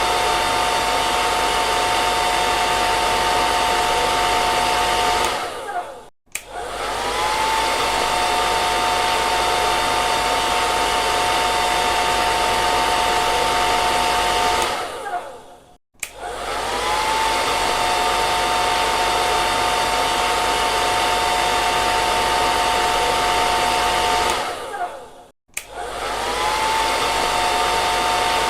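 Hair dryer running with a steady rush of air and a steady motor whine. Three times it briefly dips out, and each time the whine slides back up to pitch as it returns.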